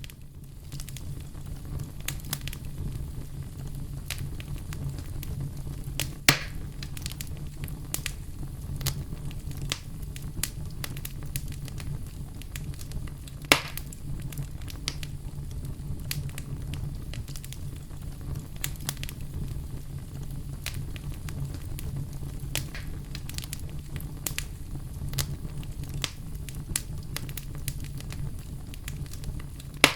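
Wood campfire burning, with a steady low rumble of flames and constant small crackles, and two sharp louder pops about six seconds in and at about thirteen seconds.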